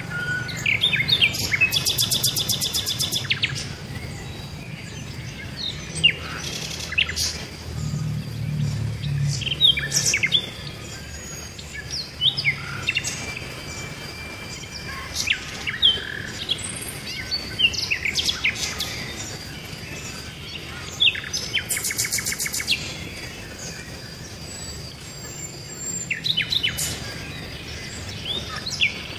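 Several birds chirping and calling in short high notes, with a fast rattling trill three times: near the start, about two-thirds of the way in, and near the end.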